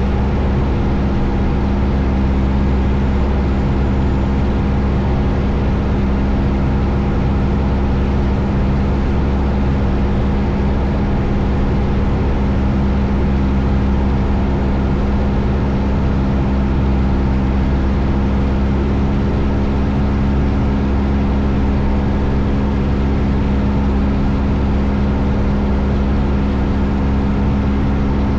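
Steady drone of a 1972 Cessna 172 Skyhawk's four-cylinder Lycoming engine and propeller in flight, heard inside the cabin, holding one even pitch and level.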